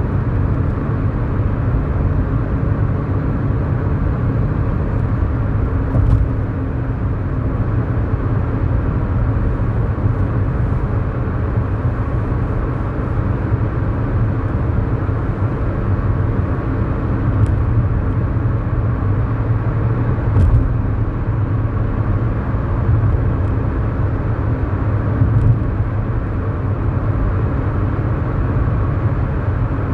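Cabin sound of a 2011 Kia New Morning on the move: its 999 cc four-cylinder SOHC engine running steadily under a low road and tyre rumble, with a few brief knocks.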